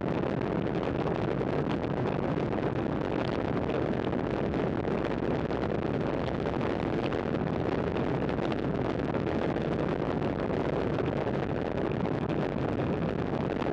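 Steady wind noise rushing over a camera microphone carried on a road bike riding at speed.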